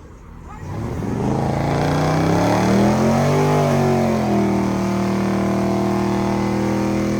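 Car engine revving hard about a second in, climbing and dipping in pitch, then held at steady high revs for several seconds, with a steady hiss beneath.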